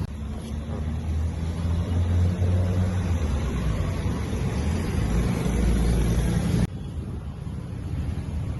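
Road traffic: a motor vehicle's engine running close by as a steady low rumble, which cuts off suddenly near the end, leaving a quieter traffic hum.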